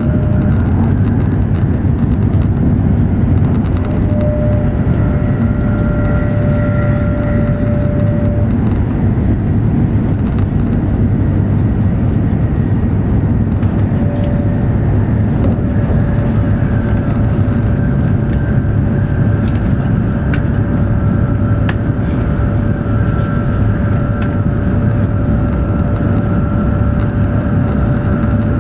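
Running noise of an E7 series Shinkansen at speed, heard from on board: a steady low rumble with a faint whine that comes and goes.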